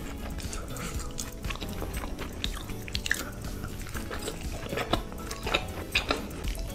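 Chewing and biting into soft steamed momo dumplings, with a run of sharp mouth clicks in the second half, over faint background music.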